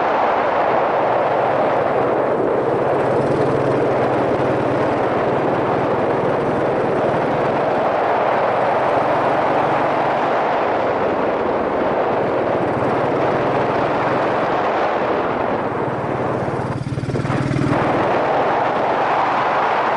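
Wind rushing over a helmet-mounted camera on a moving Yamaha SRX400, with the bike's single-cylinder four-stroke engine running steadily underneath. The sound dips briefly about three-quarters of the way through.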